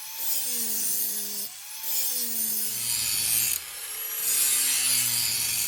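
Lawnmower blade being sharpened. Steel is ground in about three long passes, each a harsh, hissing rasp with a tone that falls in pitch during the pass.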